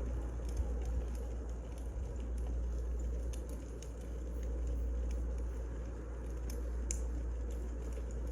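Wood fire burning: irregular small crackles and pops over a steady low rumble.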